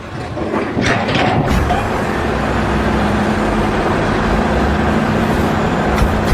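A motor vehicle or machine engine running steadily, with a few brief knocks or clatters about a second in.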